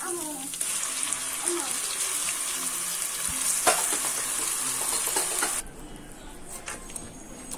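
Onions frying in hot oil, sizzling loudly as onion paste is poured into the pot and stirred with a wooden spatula. The sizzle cuts off sharply about five and a half seconds in, leaving quieter stirring with a few clicks of the spatula against the pot.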